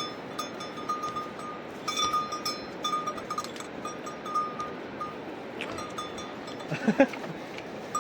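Metal bells on grazing livestock jingling irregularly over a steady background hiss, with a brief loud call about seven seconds in.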